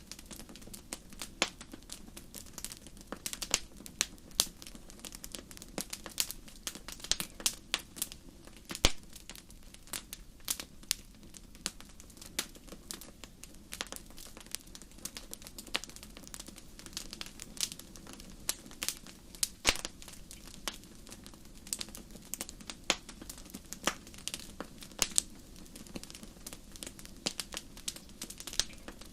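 Wood fire burning in a fireplace, crackling with many irregular sharp pops over a low steady rumble of the flames.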